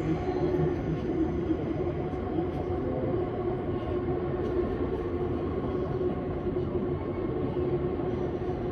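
Vienna S-Bahn electric commuter train running along the track: a steady rumble of wheels on rails with a constant hum.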